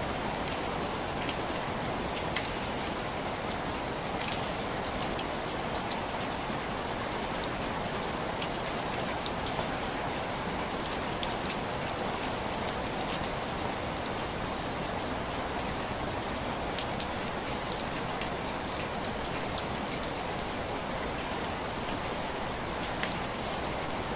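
Steady rain falling on window glass, an even hiss with scattered sharp drop ticks.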